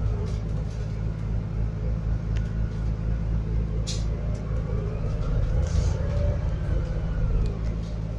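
Scania N280UD double-decker bus's biogas engine running, heard from on board as a steady low rumble with a faint whine that rises and falls; a sharp click about four seconds in.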